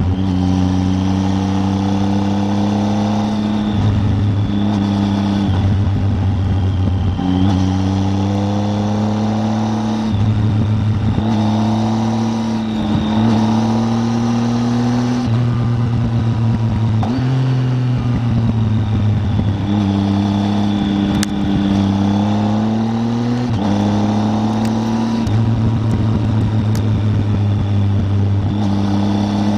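Triumph Tiger 800's three-cylinder engine running under way, its note climbing and then dropping back every few seconds as the rider accelerates and changes gear.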